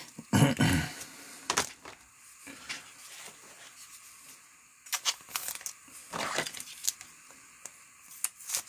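Trading cards and a foil pack wrapper being handled: rustling, crinkling and tearing in short bursts, loudest in the first second.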